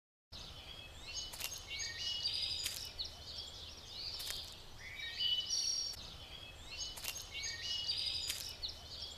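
Songbirds chirping: short trills and rising whistles that recur every second or two, with a few sharp clicks among them. The birdsong starts abruptly a moment in.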